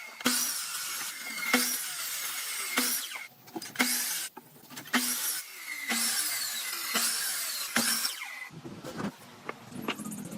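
Power tools working wood in a run of short spells, each starting sharply, about one a second.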